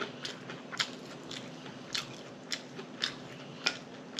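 Close-miked mouth chewing a bite of bun-less cheeseburger, with wet lip smacks and mouth clicks about every half second.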